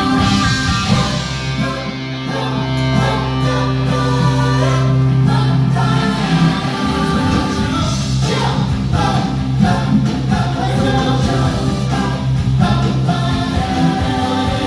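Live band music with singing, over a strong, sustained bass.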